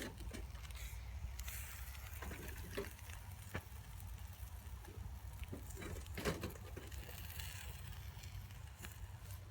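Wind rumbling on the microphone, with scattered soft rustles and clicks; the loudest comes about six seconds in.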